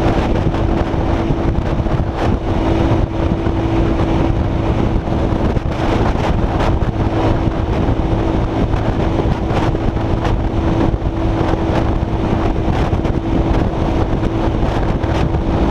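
Motorcycle engine running at a steady cruising speed, its note holding level throughout, under heavy wind rushing and buffeting on the camera microphone at road speed.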